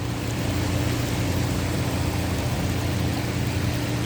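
Fire engine's engine rumbling steadily under a rush of water and rain noise, growing slowly louder as it comes through the flooded street.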